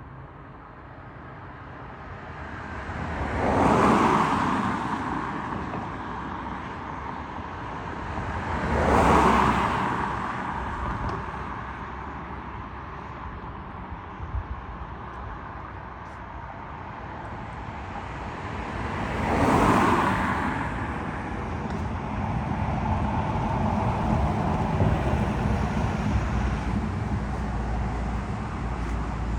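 Road traffic passing: three vehicles go by one after another, each rising to a peak and fading, followed by a steadier, heavier rumble that builds near the end.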